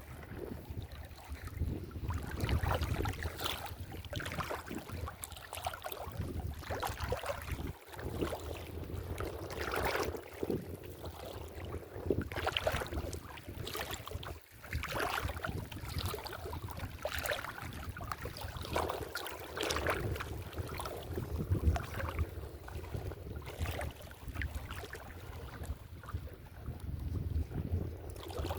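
Irregular splashing and sloshing of shallow water, with wind rumbling on the microphone.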